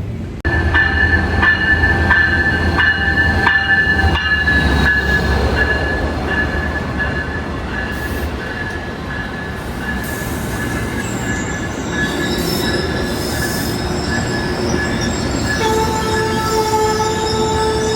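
Amtrak passenger train rolling along the platform, its wheels squealing in several steady high tones over a heavy low rumble and a few knocks. The rumble eases after about eight seconds, and lower squeal tones join near the end as the train slows.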